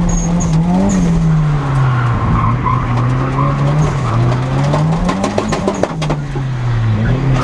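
Nissan S13's turbocharged CA18DET four-cylinder engine heard from inside the cabin, revving up and down repeatedly while drifting, with the tyres skidding and squealing.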